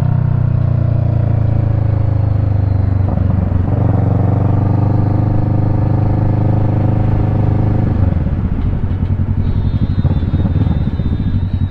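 Kawasaki Ninja 650's parallel-twin engine running while ridden, its note falling as the bike slows, with a change around three seconds in. Its pitch falls again, then settles into a lower, pulsing note for the last few seconds.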